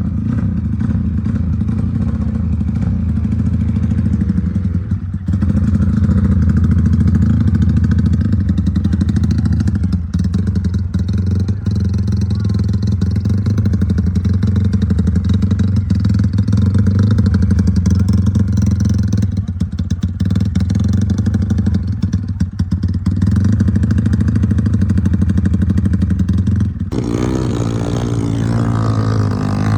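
Drag-racing motorcycle engine running loudly and close by, holding fairly steady revs, with the sound changing about 27 seconds in.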